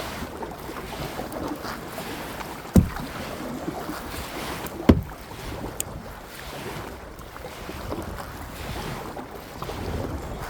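Kayak paddling: water sloshing with wind on the microphone, broken by two sharp knocks about two seconds apart, which are the loudest sounds.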